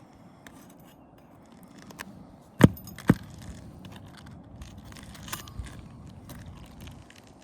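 Two sharp strikes of a hand tool about half a second apart, with light metallic clinks and scraping around them: tools working nails and shingles loose on a roof.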